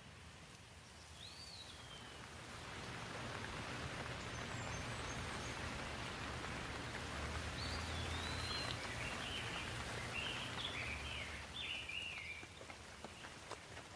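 Rain falling in an even hiss that swells louder over a couple of seconds and eases off again near the end. A bird chirps briefly near the start and several times in the second half.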